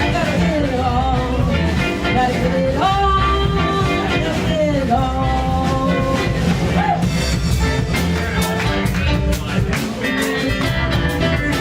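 Live rock band playing at full volume, with drums, bass and guitar under a lead melody of held notes that slide between pitches.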